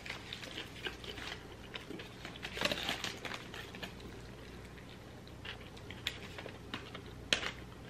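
Faint close-up eating sounds: chewing and biting into burgers, with scattered small clicks and mouth noises, a louder noisy stretch about three seconds in and a sharp click near the end.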